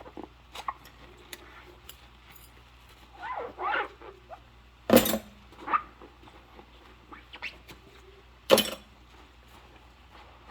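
Rubber-gloved hands squeaking on wet dishes, with a pair of short, gliding squeals about three and a half seconds in. Two sharp dish clinks about five and eight and a half seconds in are the loudest sounds, with lighter taps and ticks between them.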